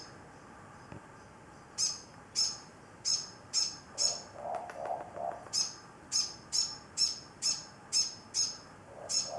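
Moreporks calling: a steady run of short, high-pitched chirps, about two a second, beginning about two seconds in, with a lower, softer warbling call around the middle.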